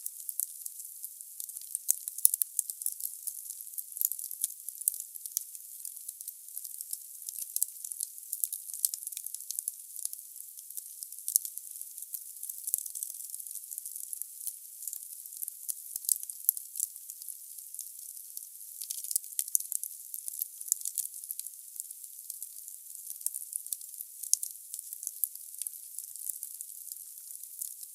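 Firewood burning in a fireplace: a steady thin hiss with dense crackling and small pops of the wood, the sharpest pop about two seconds in.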